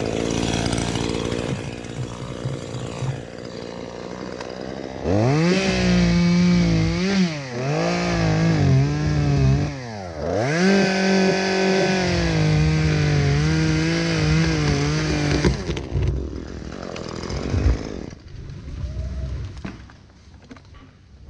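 Chainsaw idling, then revved hard about five seconds in and held at high speed for some ten seconds, its pitch dropping and climbing back twice, before it drops off. Two sharp knocks follow near the end.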